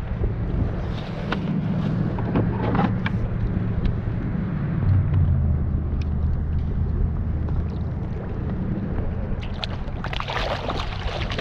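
Steady low hum with wind and water noise around a kayak, scattered light knocks, and a louder flurry of splashing about ten seconds in.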